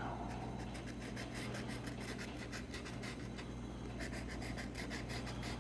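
Scratch-off lottery ticket being scratched: quick, short scraping strokes rubbing the coating off the card.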